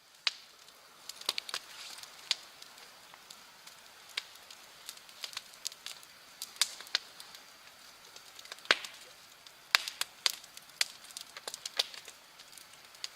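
Wood fire crackling, with sharp, irregular pops and snaps over a faint steady hiss.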